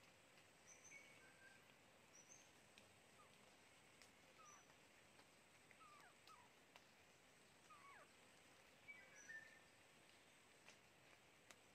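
Faint, scattered bird calls: short high chirps and a few quick falling whistles over quiet forest background.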